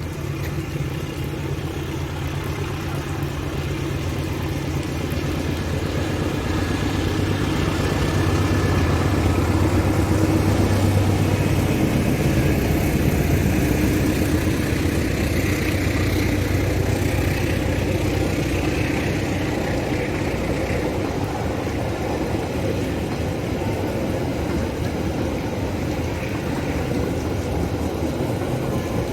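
A train running past, with a steady low engine-like hum. It grows louder over the first ten seconds, then holds steady.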